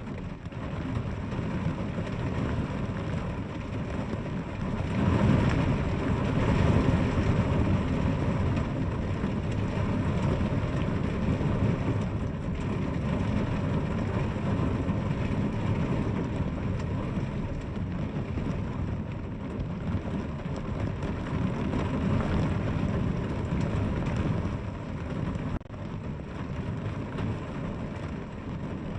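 Steady rain falling, an even hiss with a deep low rumble underneath; it swells louder about five seconds in and eases off again, with a brief dip near the end.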